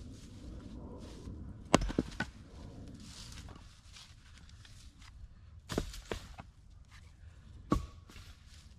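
Sharp knocks at irregular intervals over a low steady rumble: three close together about two seconds in, two more around six seconds in, and one near eight seconds.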